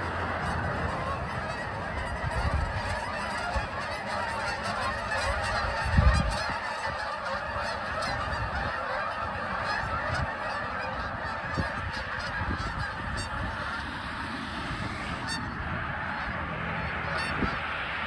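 A large flock of geese honking, many calls overlapping in a steady din. There is a brief low rumble about six seconds in.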